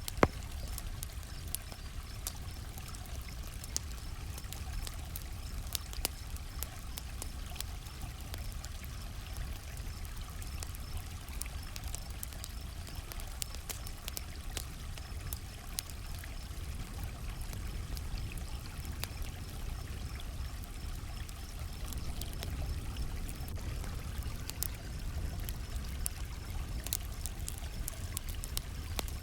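Campfire crackling, with scattered sharp pops over a steady low rush, and one loud pop right at the start. Crickets chirp faintly in a fast, even pulse throughout.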